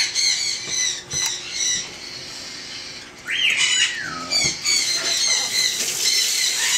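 Baby parrot chicks squawking in short, repeated harsh calls, the food-begging cries of hungry hand-fed chicks. About three seconds in, one longer call rises and then falls in pitch.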